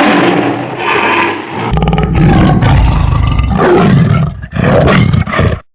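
A large animal roaring: several deep, rough roars that cut off suddenly near the end.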